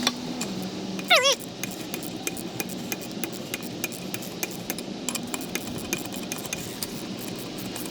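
Hand tools clicking and knocking on metal during car disassembly, a scatter of small sharp clicks, with one short high squeal falling in pitch about a second in.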